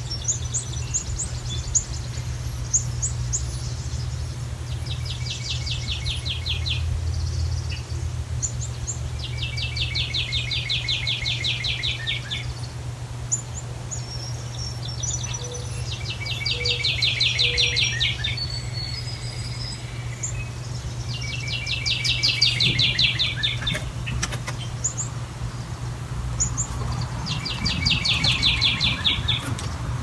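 Songbirds singing: a rapid trill of about two seconds, repeated five times at intervals of five to six seconds, with short high chirps from other birds in between, over a steady low hum.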